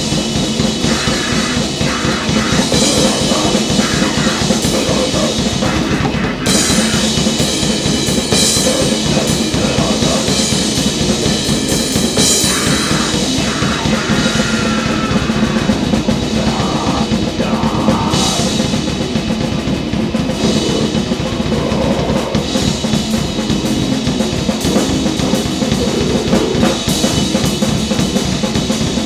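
Grindcore/noise band playing: fast, dense drumming under distorted guitar and bass noise, loud and unbroken.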